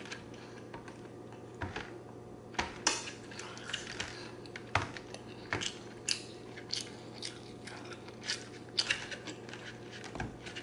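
Close-miked chewing of creamy zucchini noodles and shrimp, with a metal fork clicking and scraping against a clear plastic plate. The sounds come as irregular short clicks and wet snaps, one or two a second.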